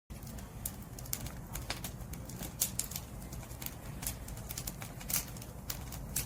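Wood fire crackling: irregular sharp crackles and pops from the burning firewood over a steady low rumble of the flames.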